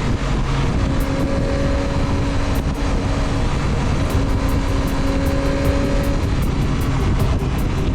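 Motorcycle engine running at a steady pace while riding, with heavy wind rumble on the helmet or bike microphone.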